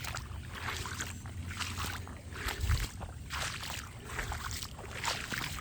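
Footsteps splashing through shallow floodwater, about two steps a second, over a steady low rumble.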